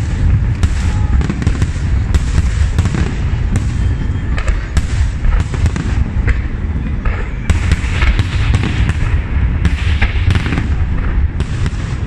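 Aerial firework shells bursting in rapid, overlapping succession: a loud, continuous rumble of booms with many sharp cracks throughout.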